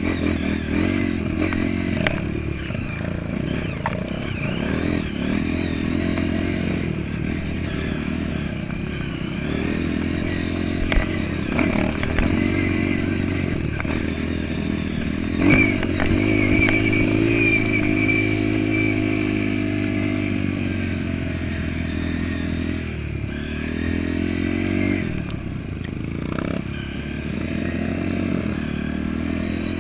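Off-road dirt bike engine revving up and down over and over as it rides, with a few sharp knocks about eleven seconds in and again near sixteen seconds.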